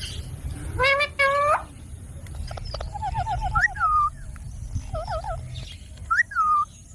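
Indian ringneck parakeet vocalizing in short pitched calls: two quick calls about a second in, a fast warbling run around three seconds, then sharp rising-and-falling squawks.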